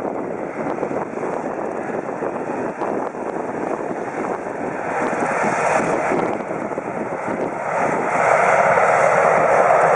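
Sikorsky S-70i Black Hawk helicopter flying in, its rotor and turbine noise growing louder over the last couple of seconds.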